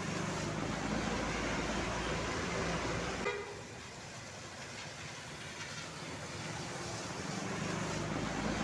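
Heavy vehicles passing close on a road, with engine drone and tyre noise. A short horn toot sounds about three seconds in as one vehicle goes by, then the noise dips and swells again as the next one approaches.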